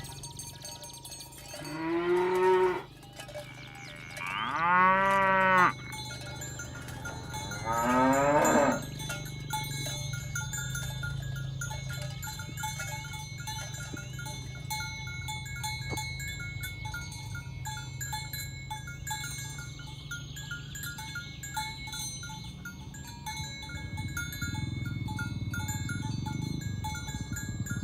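Cattle mooing: three long calls in the first nine seconds, the second one loudest. After the calls, a steady run of short, light ringing tones goes on over a low background hum.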